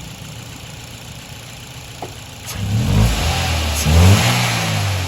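Toyota Corolla GLi petrol engine idling steadily, then revved twice from about halfway in, the pitch rising and falling with each blip. Its tappets have just been adjusted, and the mechanic calls the sound excellent now.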